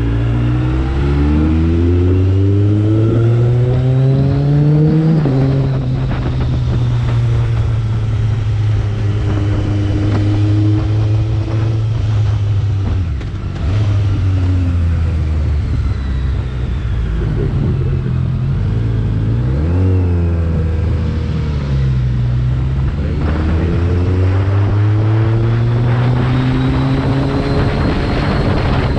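BMW K1300R motorcycle's inline-four engine under way: the engine note climbs in pitch under acceleration in the first few seconds, holds steady while cruising, drops briefly on a throttle lift about 13 seconds in, dips and picks up again near 20 seconds, and climbs once more towards the end.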